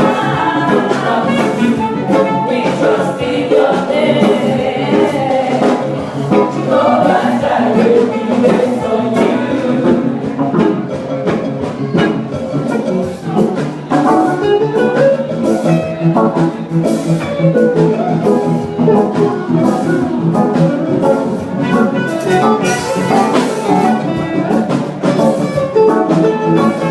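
A church choir singing an anthem with instrumental accompaniment.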